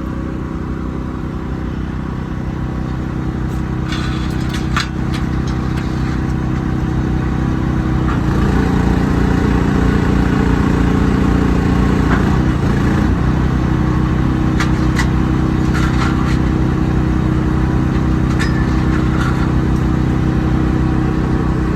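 Truck engine running steadily, working harder for about five seconds from about eight seconds in, with a few clicks.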